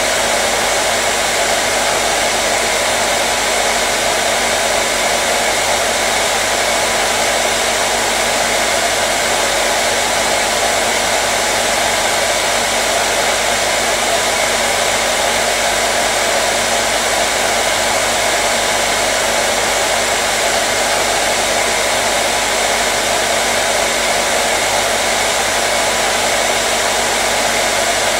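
Hair dryer running steadily with an even rushing of air and a faint motor hum, unchanging throughout.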